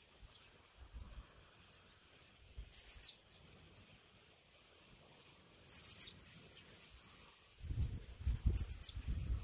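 A bird calling three times, about three seconds apart: each a short high call that wavers and then drops in pitch. A low rumble comes in near the end.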